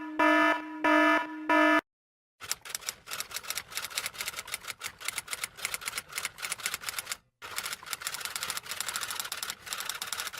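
Electronic beeper sounding about four short pitched beeps, then, after a brief gap, fast irregular key clicks of someone typing, running on with one short pause midway.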